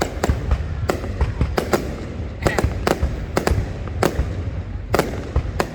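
Fireworks going off: a quick, irregular run of sharp bangs and pops, several a second, over a continuous low rumble.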